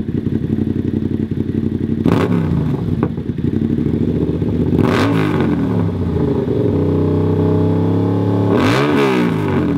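Yamaha MT-07's parallel-twin engine breathing through an SC Project CRT full exhaust system with no baffle fitted: a loud, steady idle, then revved three times, each rev rising in pitch and falling back, the last one longest and highest near the end.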